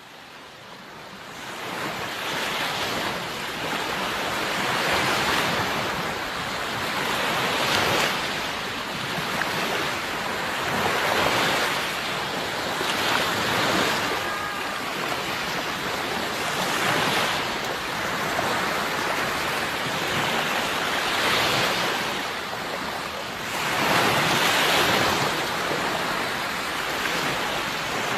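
Sea surf washing onto a shore, with waves swelling and breaking every few seconds. The sound fades in over the first couple of seconds.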